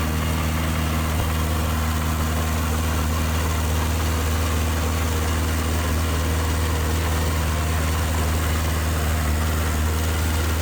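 Heavy diesel engine of earthmoving machinery running steadily at an even low idle, with no revving or change in pitch.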